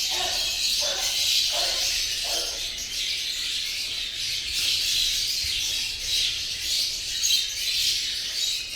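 A flock of caged lovebirds chirping and chattering continuously, a dense mass of high overlapping calls.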